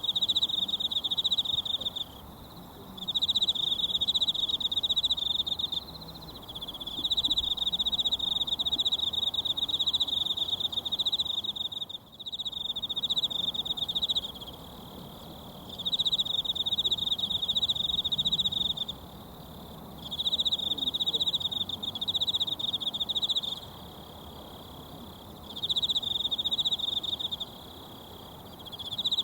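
An insect trilling high and steadily in repeated bouts of a few seconds, with short pauses between them, over the faint steady rush of a mountain stream.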